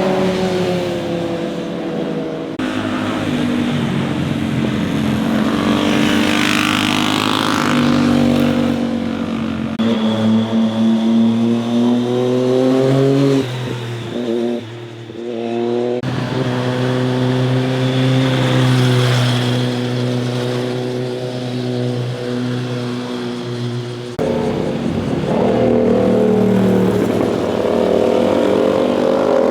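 Motorcycle engines revving and accelerating through bends, their pitch rising and falling as the bikes pass. The sound changes abruptly four times, as from cut to cut between passes.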